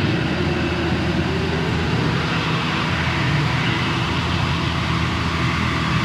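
Harsh noise music: a loud, dense wall of distorted noise over a low rumble, with a droning tone that glides upward about a second in.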